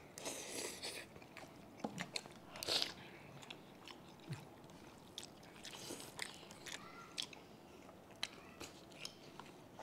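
Close-up eating sounds of two people chewing sinigang vegetables, pork and rice, with scattered light clicks of a spoon. A few short louder mouth noises come in the first second, about three seconds in and again around six seconds.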